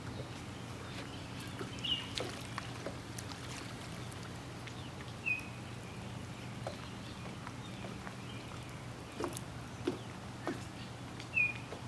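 A bird's short, clipped call, repeated three times several seconds apart, over a steady low hum and a few faint clicks.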